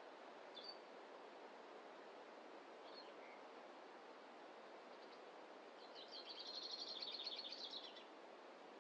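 Faint forest ambience: a steady soft hiss, with a few short bird chirps and, about six seconds in, a rapid high bird trill lasting about two seconds.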